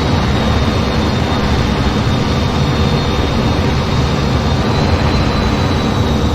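Jet aircraft engines running steadily: a constant loud rumble with a thin, high, steady whine on top.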